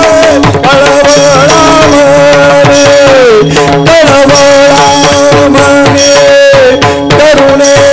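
Devotional abhang singing with accompaniment: a voice holding long, gliding notes over a steady drone tone, with a hand drum striking in rhythm.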